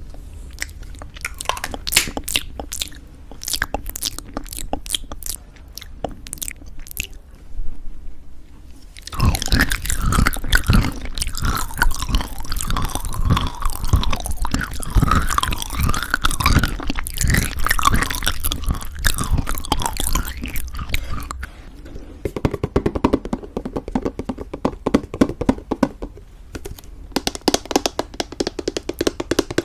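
Close-miked chewing of homemade granola in thick yogurt, crisp crunches with wet mouth sounds. Sparse sharp crunches at first, then a stretch of dense, louder crunching about nine seconds in that eases off to softer chewing about twenty-two seconds in.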